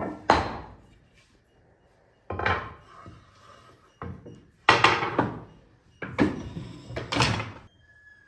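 Wood being handled on a workbench: six or seven knocks and short scraping strokes, irregularly spaced, each sudden and dying away within about half a second.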